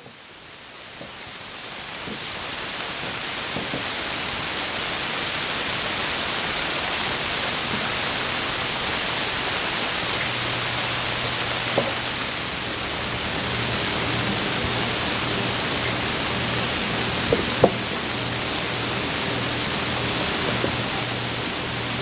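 Steady hiss that swells in over the first two seconds and then holds even, with a faint low hum from about halfway and a few light clicks.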